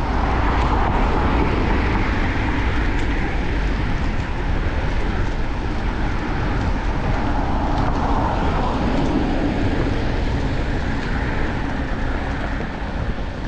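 Steady wind noise on a bike-mounted action camera's microphone, over the sound of city traffic passing.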